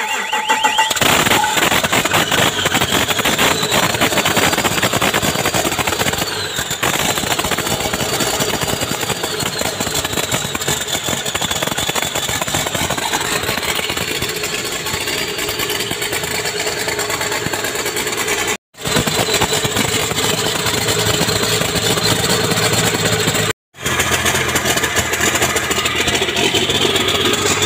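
A large engine starts up about a second in and runs steadily and loudly, with a high whine that drifts slowly up and down. It cuts off abruptly twice, briefly each time.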